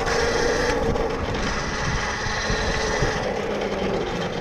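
Tuttio Soleil 01 electric dirt bike's motor whining steadily while riding, with wind buffeting the microphone.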